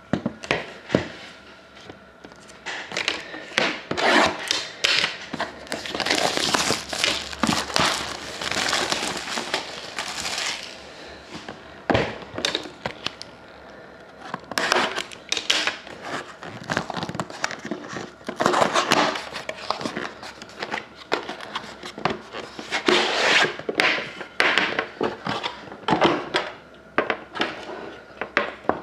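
Hockey card packaging being opened by hand: irregular crinkling, tearing and rustling of wrapper and cardboard, with a longer continuous rip or rustle for several seconds about a fifth of the way in.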